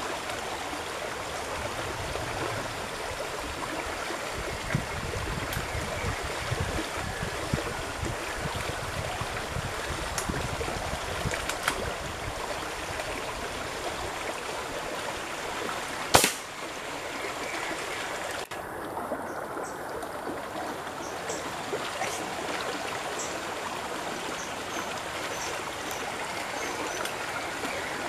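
A river running steadily, an even rush of water. One sharp click sounds about sixteen seconds in.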